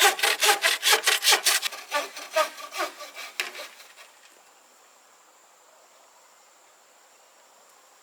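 Hand saw cutting wood in quick back-and-forth strokes, about five a second. The strokes weaken and stop about four seconds in.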